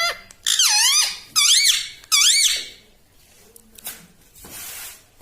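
Pet parrot giving three shrill, squeaky calls in quick succession, each sliding up and down in pitch, then falling quiet.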